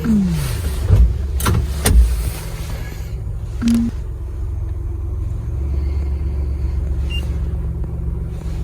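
Steady low rumble of a car driving, with a few sharp knocks in the first four seconds. At the very start the background music slides down in pitch and cuts off.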